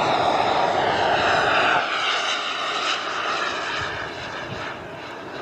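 Small gas-turbine engine of a radio-controlled BAE Hawk model jet, a loud rushing jet noise with a high whine. It is loudest for the first two seconds, then falls off and fades, as when the jet passes by.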